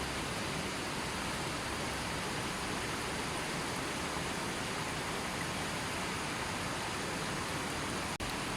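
A gently flowing river, its water rushing steadily. The sound drops out for a split second near the end.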